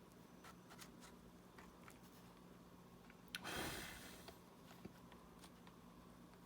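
Faint small clicks and taps of small tools and parts being handled during a smartwatch repair, over a low hum. About three and a half seconds in, one short hissing rush of noise rises and fades within a second.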